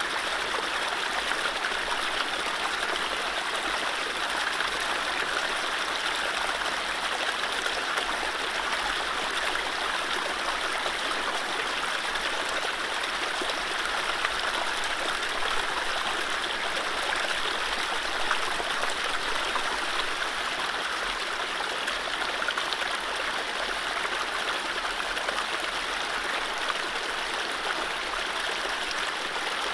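Mountain stream running steadily over low rapids, a constant rushing and splashing of water.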